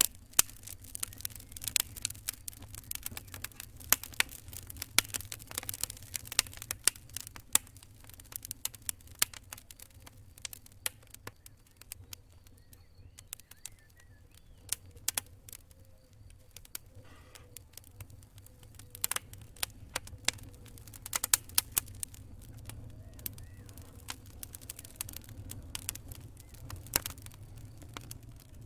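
Campfire crackling: burning wood giving irregular sharp pops and snaps, some louder than others, over a low steady rumble.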